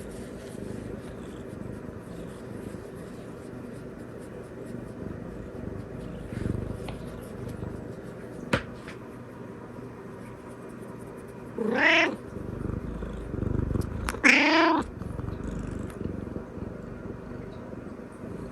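A domestic cat purring steadily, with two meows a couple of seconds apart about two-thirds of the way through, the second longer and louder.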